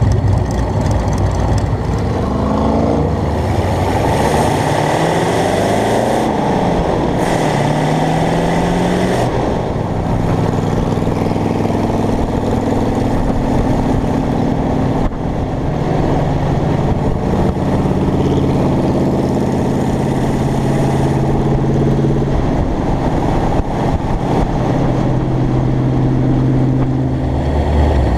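Hot rod's engine, with its carburetor stacks open to the air, pulling away and revving up through the gears in several rising sweeps, then running steadily at cruising speed from about ten seconds in.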